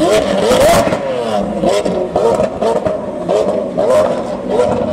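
Lamborghini Aventador's V12 revving hard as it pulls away, then a rapid series of short throttle blips, each a quick rise and fall in pitch, with sharp cracks among them.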